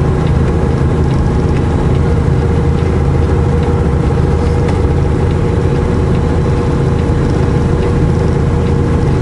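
Semi truck's diesel engine and road noise, a steady low drone heard inside the cab while driving slowly on snow.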